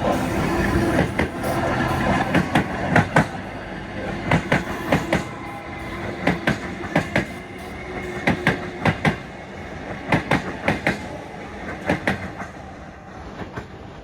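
A train rolling past, its wheels clicking over rail joints in quick pairs as each bogie crosses, fading toward the end.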